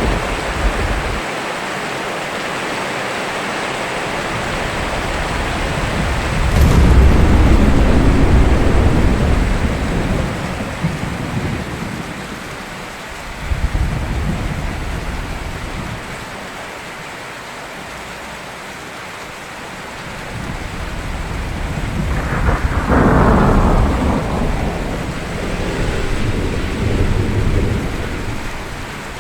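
Steady rain with thunder rumbling through it: a long roll about a quarter of the way in, a short crack near the middle, and another long roll building near the end.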